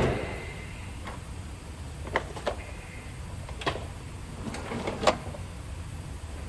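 Scattered clicks and knocks of tools and metal parts being handled during a brake job, about six separate ones, the loudest about five seconds in, over a steady low hum.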